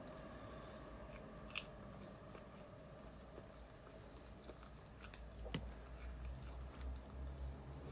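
A person chewing and biting food close to the microphone, with scattered small crunches and mouth clicks.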